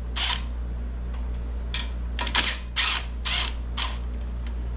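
Ratchet wrench clicking in about six short strokes, loosening the 10 mm valve cover bolts on a small engine.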